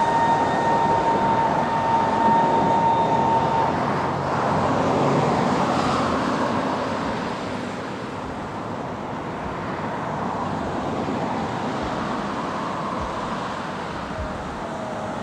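Steady traffic-like rumble with a distant train approaching slowly. A single steady high tone is held for the first few seconds, then stops.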